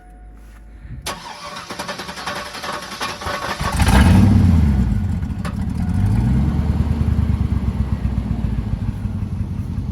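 Chevrolet Silverado 5.3-litre V8 with its muffler removed, cranking on the starter for a couple of seconds, catching with a loud flare of revs, then settling into a steady idle through the open exhaust.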